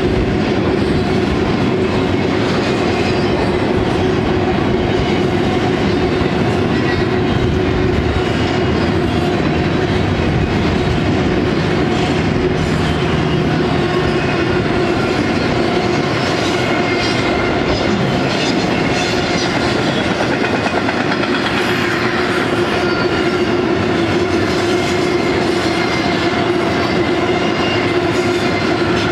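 Intermodal freight train's loaded well cars rolling past at close range: a loud, steady noise of steel wheels on rail, with a steady tone running under it.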